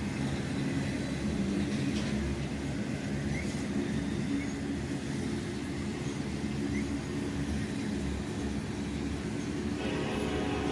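Norfolk Southern freight train rolling past, a steady rumble of wheels on rail. A pitched hum with several overtones joins near the end.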